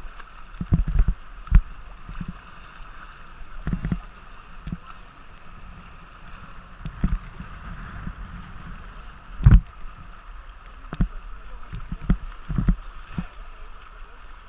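Tandem kayak running through river waves: steady rushing water with irregular low thumps and slaps against the boat, the strongest about nine and a half seconds in.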